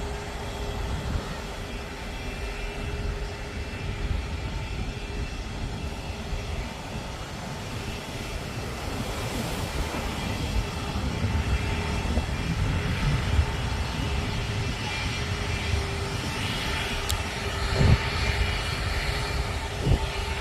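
Jet airliner's engines rumbling as it comes in to land, the noise growing louder in the second half. A short knock near the end.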